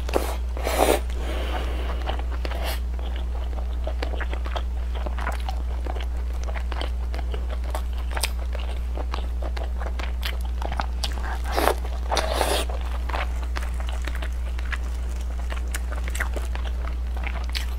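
Close-miked eating: biting into and chewing soft, tender red-braised pork belly, with a run of small mouth clicks and louder bites about a second in and again around twelve seconds in. A steady low hum runs underneath.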